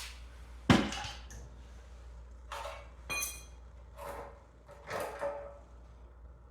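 Metal tools and small-engine parts being handled: a sharp knock about two-thirds of a second in, then several lighter clinks and knocks, one ringing briefly.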